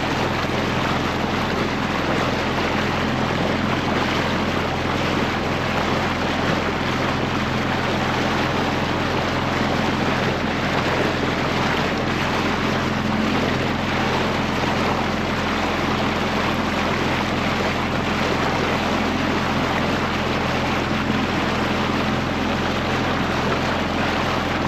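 Boat engine running at a steady speed, a constant hum under the rush of wind and water.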